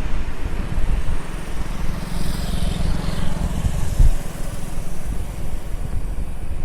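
Jet airliner engines rumbling as a Boeing 737-800 moves away, with gusty low buffeting under the rumble and a brief rise and fade of hiss a couple of seconds in.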